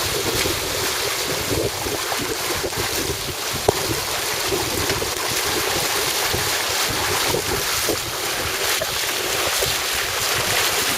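Steady wind noise on the microphone aboard a sailing boat under way, with water sounds, and a single sharp click about four seconds in.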